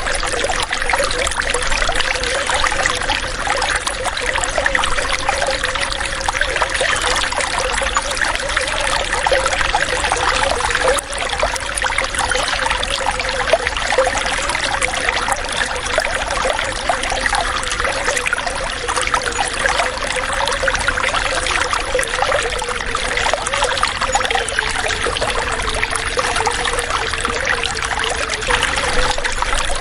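Running water trickling steadily, without a break.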